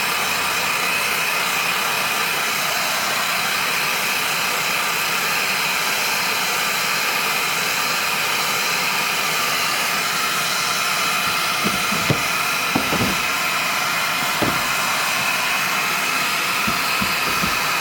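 2-kilowatt electric heat gun blowing hot air steadily with a high whine, heating a new crankshaft bearing so it expands enough to slide onto the crankshaft. A few light knocks in the second half.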